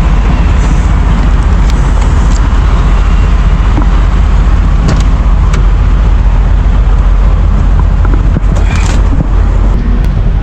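Steady, loud motor-vehicle rumble and road noise with a heavy low end, broken by a few faint clicks.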